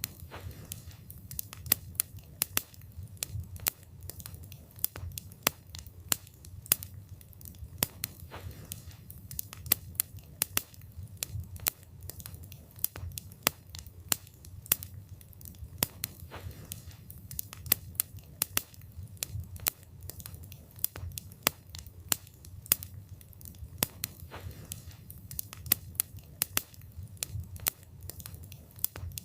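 Wood fire burning, with frequent irregular sharp crackles and pops from the burning wood over a low steady rumble of the flames.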